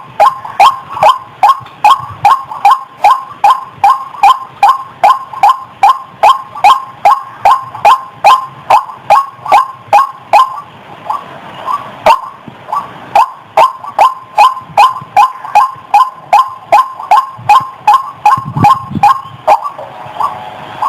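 White-breasted waterhen (ruak-ruak) calling: a loud, quickly repeated single note, about two to three a second, with a brief break about halfway through.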